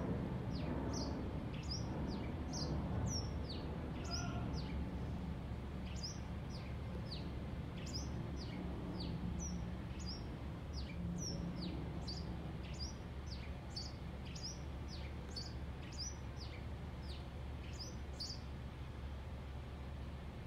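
A small bird calling: a long run of short, high chirps, each falling in pitch, one or two a second, that stops near the end. A steady low background rumble runs underneath.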